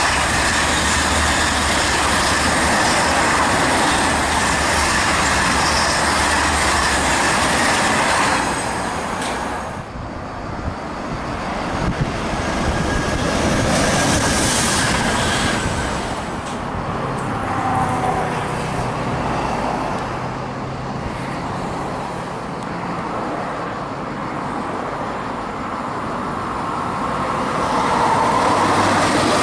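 TGV Duplex high-speed train passing at speed, a loud rushing noise of wheels on rails and air that stops abruptly about 9 seconds in. Then a Z23500 (2NPG) regional electric multiple unit passes more quietly with faint steady tones, and near the end the noise rises again as another TGV approaches.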